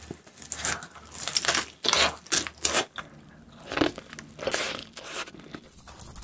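Close-miked eating sounds: crunchy bites and chewing of pizza and bread crust, coming in quick bursts.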